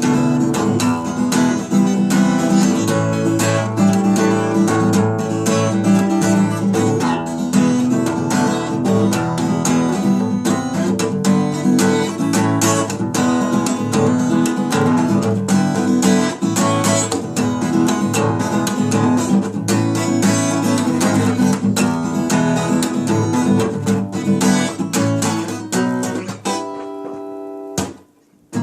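Acoustic guitar played solo with chords strummed and picked, no singing. Near the end a chord is left ringing, the sound breaks off briefly, and the playing starts again.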